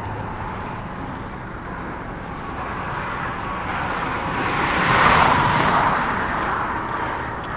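Road traffic noise, with one vehicle passing loudly about five seconds in, rising and then fading.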